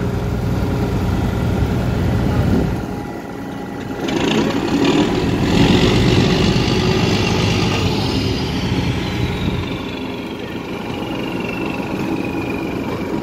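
Ship's engine running steadily with a low droning hum. It swells louder with added rushing noise partway through, and a high whine falls slowly in pitch over the second half.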